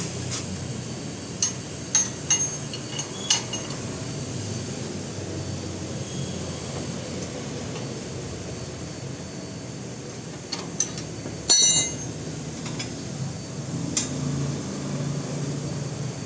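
Scattered metallic clinks and taps of hand tools against metal parts, with a louder ringing clatter about twelve seconds in, over a steady background hum.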